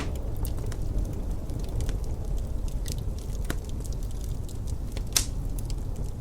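Wood fire crackling in a fireplace: scattered small snaps and ticks, with one sharper pop about five seconds in, over a steady low rumble.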